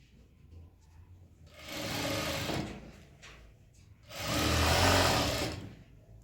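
Sewing machine stitching in two short runs, the second longer and louder, with pauses between.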